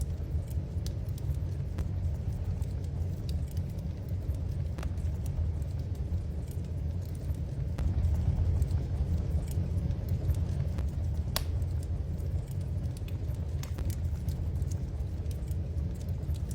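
Wood fire burning in a fireplace: a steady low rumble with scattered sharp crackles and pops, one louder pop about 11 seconds in.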